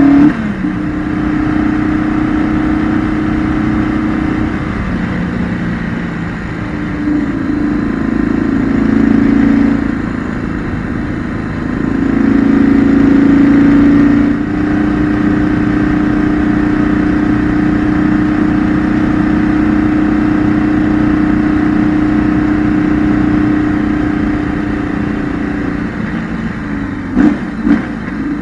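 Onboard sound of a 2008 BMW R1200GS's boxer twin engine under way through curves. The engine note swells twice as the throttle opens, then holds a steady pitch while cruising. Two sharp knocks come near the end.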